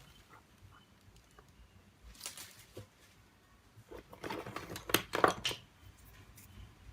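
Hand tools scraping and clicking against a smartphone's parts during a repair. A brief scrape comes about two seconds in, then a louder run of scrapes and sharp clicks from about four to five and a half seconds in.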